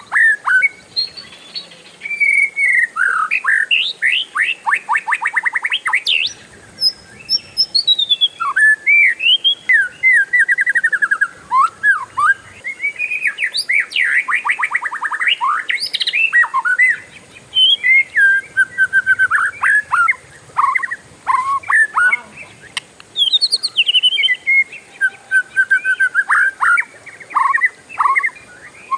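Oriental magpie-robin (kacer) singing a continuous, varied song of whistled glides broken by rapid rolling trills.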